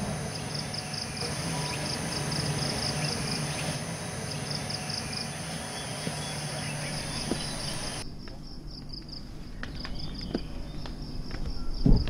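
Rainforest insects chirping in a steady, fast pulsing rhythm over a low hum. About eight seconds in, the hum and background hiss drop away while the chirping goes on, with a few light knocks and a thump near the end.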